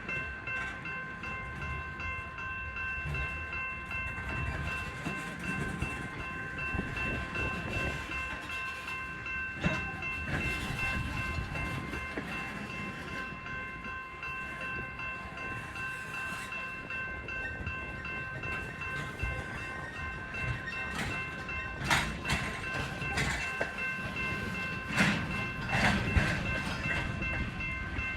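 Freight train moving on the tracks: a steady high whine runs over a low rumble. There are a few sharp clanks about ten seconds in and several more near the end.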